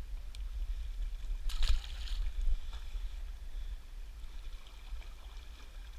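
Steady low rumble of wind buffeting the microphone over rushing river water, with one brief loud noisy burst about a second and a half in.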